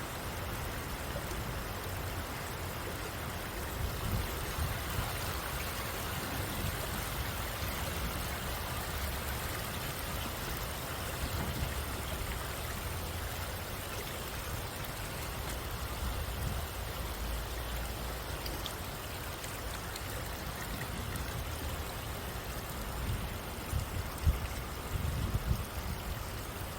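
Stream water flowing steadily, with a few low bumps near the end.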